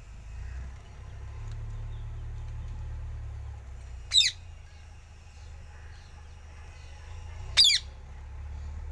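Green parrot giving two short, sharp squawks about three and a half seconds apart.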